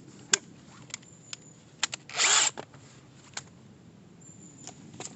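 Scattered clicks and knocks from handling a hammer drill fitted with a screw-cone wood-splitting bit, with one short rasping burst of about half a second, about two seconds in; the drill is not running steadily.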